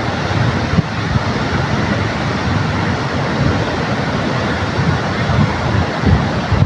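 Ocean surf washing ashore under a strong sea wind that buffets the microphone with low rumbling gusts, two sharper jolts coming about a second in and near the end.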